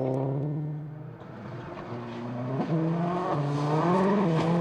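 A World Rally Car's turbocharged four-cylinder engine running hard on a stage, its pitch holding and then stepping up and down with gear changes. It drops in level about a second in and grows louder again, with tyre and gravel hiss rising near the end.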